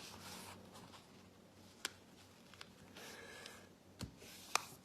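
A sheet of printer paper being folded and creased by hand: faint rustling with a few sharp ticks, the loudest one near the end.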